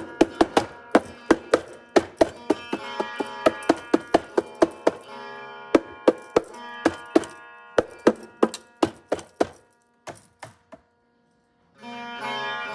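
Drum hits, about three to four a second, over a plucked-string backing track. The drumming thins out and stops about three-quarters of the way through. After a short near-silence the backing music comes back near the end.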